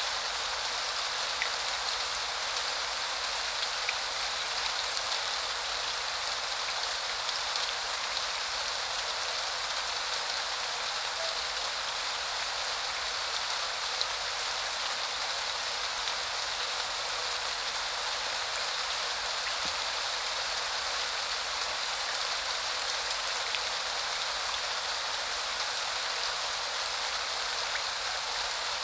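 Steady spring rain falling, an even hiss with scattered individual drops ticking through it.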